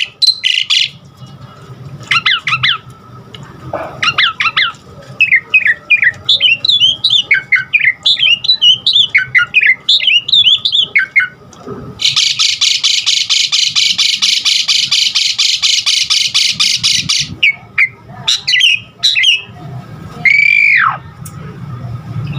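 Asian pied starling (jalak suren) singing a varied song. Quick chirps and warbling notes run through the first half. About twelve seconds in comes a rapid, buzzy rattle of about five seconds, and near the end one loud whistle that falls in pitch.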